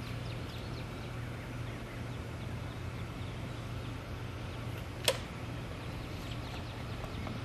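Quiet outdoor background of faint bird chirps over a steady low hum, with one sharp click about five seconds in.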